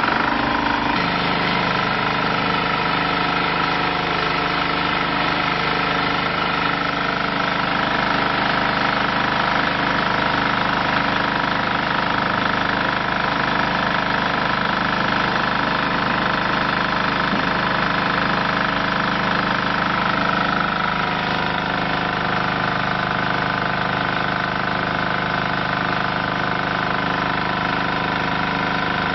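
Diesel engine of a hydraulic compressed earth block machine running steadily just after starting, with a higher whine that strengthens about seven seconds in and drops back about twenty-one seconds in.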